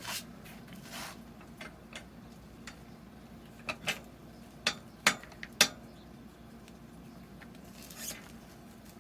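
Faint rubbing and scraping, with a few sharp clicks of metal parts and hand tools being handled, loudest about four to six seconds in.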